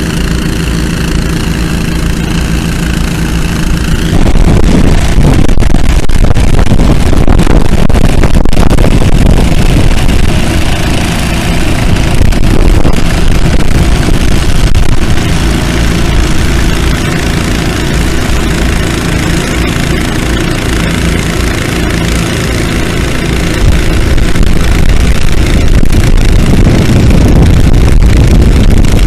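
Engine running steady and even, then from about four seconds in a louder, rougher noise that stays up for the rest of the stretch, easing off a little in the middle.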